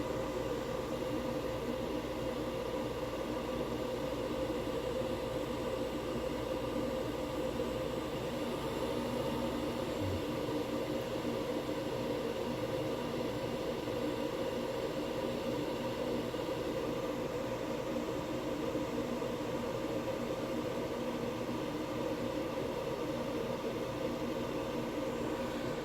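Diesel heater's blower fan running steadily at high speed in its shutdown cool-down cycle, blowing air through the unlit burner to purge the remaining heat. A steady whir with a low hum.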